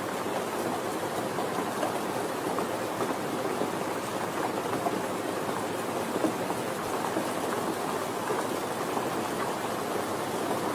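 Steady rain falling, a dense even patter with many small drop ticks.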